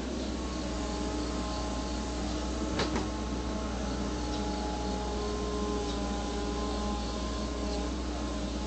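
Backhoe engine running steadily, with a couple of sharp clanks about three seconds in.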